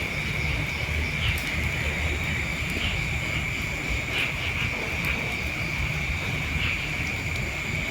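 Steady high-pitched drone of insects, with a few faint chirps over it, above a constant low rumble.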